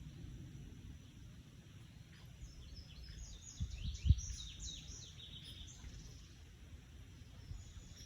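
A bird calling in a quick run of short, downward-sweeping chirps lasting about three seconds, over steady outdoor background noise. A single dull thump comes about four seconds in.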